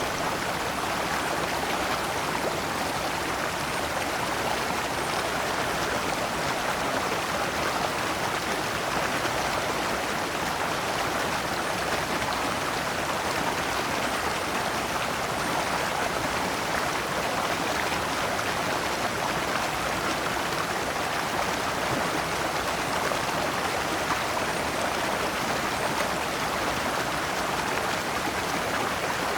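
Shallow stream running over large rocks in small cascades: a steady, even rush of water.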